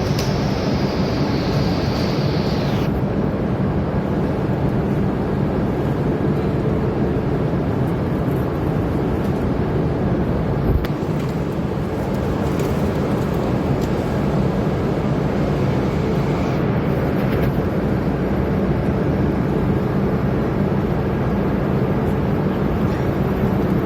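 Steady running noise of an E5 series Shinkansen at speed, heard inside the car: a low rumble and hum. A higher hiss drops away about three seconds in, and there is a single thump near the middle.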